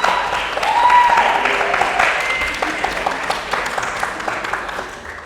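Audience applauding with dense clapping, a few voices calling out over it in the first couple of seconds, fading away near the end.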